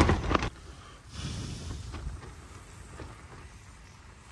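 Wind gusting against a tent, buffeting the fabric and microphone, cutting off suddenly about half a second in, then a faint rustle and hiss.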